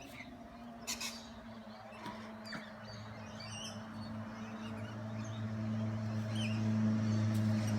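Scattered short bird chirps and calls over a steady low machine hum that grows louder toward the end, with a single click about a second in.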